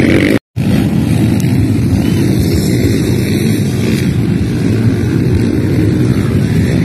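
Motocross dirt bike engines running, a loud steady low rumble, cut off completely for a split second about half a second in.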